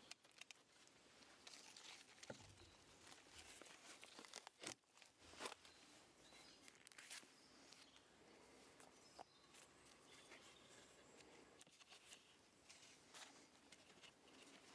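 Near silence, with faint scattered rustles and light clicks over a low hiss.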